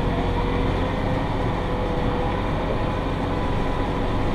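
Massey Ferguson 5610 tractor running steadily at speed while pulling a John Deere 468 round baler, a constant low rumble with a thin steady whine over it.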